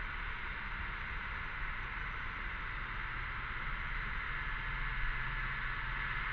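Chorus of cicadas buzzing steadily, swelling slightly about halfway through.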